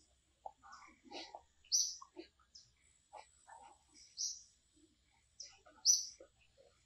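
A bird chirping: short high chirps, three loud ones about every two seconds, among softer scattered short sounds.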